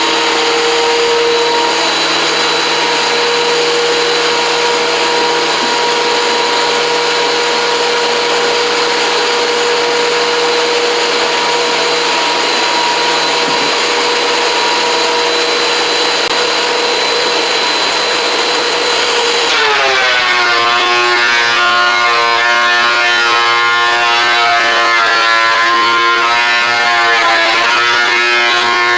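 WEN 13-inch benchtop thickness planer running with a steady whine. About twenty seconds in, the motor's pitch drops as a board feeds through and the knives take the load, starting to climb back near the end.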